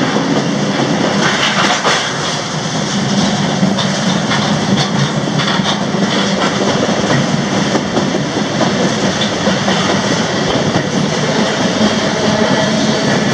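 Freight car rolling along the track, heard from aboard: a steady rumble with irregular clattering clicks from the wheels and car.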